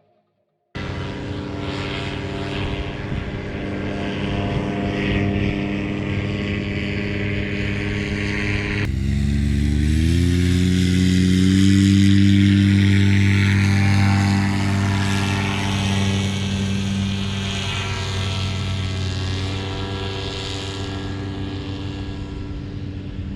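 Paramotor engine and propeller running steadily. About nine seconds in it is throttled up, the pitch rising and holding higher.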